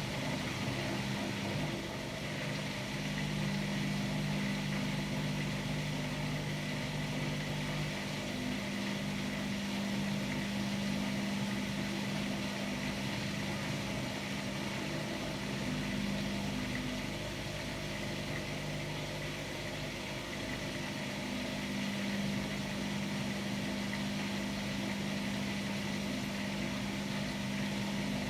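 Hotpoint-Ariston Aqualtis AQD972F 697 washer-dryer running, a steady machine hum with a low tone that drops out about eight seconds in.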